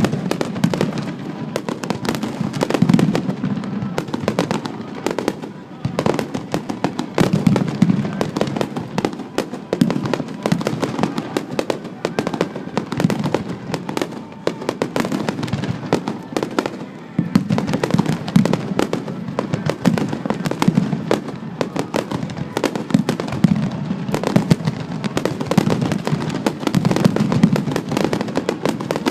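Fireworks finale barrage: a dense, continuous run of rapid bangs and crackles, many shells bursting every second with deep booms underneath.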